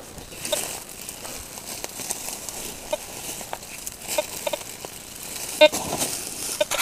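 Teknetics T2 metal detector giving several short beeps as the coil is swept over the ground, over a faint steady outdoor hiss.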